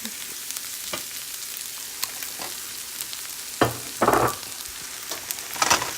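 Chicken fried rice frying in a hot pan, a steady sizzle as the eggs go in, with a sharp knock a little past halfway and a quick run of clicks and scrapes near the end.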